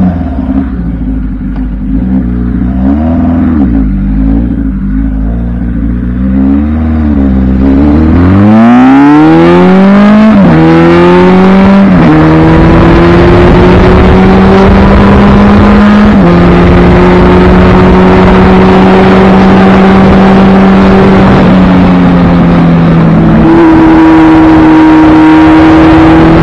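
1976 Kawasaki KZ1000's air-cooled inline-four engine pulling away at low revs with small blips of throttle. From about eight seconds in it accelerates hard, the revs climbing steeply and dropping at two quick upshifts. It then settles into a near-steady cruise with small changes in revs and wind noise growing with speed.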